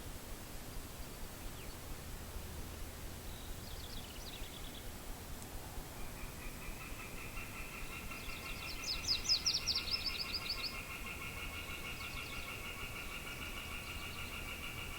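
Wind with birds calling: a few short high chirps about four seconds in, a quick run of high chirps near the middle, and from about six seconds a long, steady pulsed trill that carries on.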